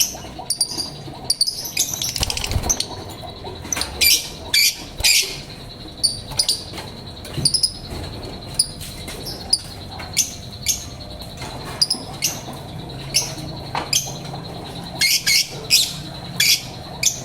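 Lovebird giving short, sharp, high chirps again and again at uneven intervals.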